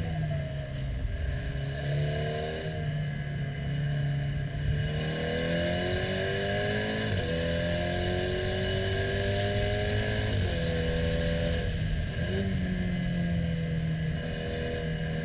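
KTM X-Bow Comp R's turbocharged four-cylinder heard onboard, pulling hard with its pitch climbing. A quick DSG upshift about seven seconds in drops the pitch, and it climbs again. The pitch falls and levels off about ten seconds in as the car slows for a corner. A steady high hiss runs underneath.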